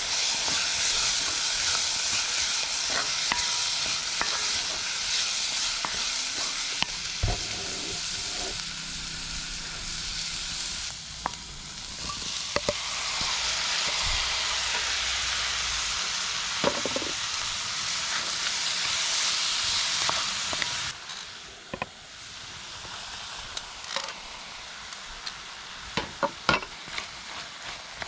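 Food sizzling and frying in a hot pan while being stirred. The sizzle drops to a quieter level about two-thirds of the way through, and several sharp clicks and taps follow near the end.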